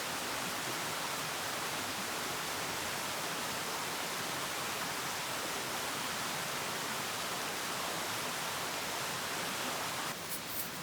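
Steady, even rushing hiss that stops abruptly about ten seconds in, followed by a few light clicks.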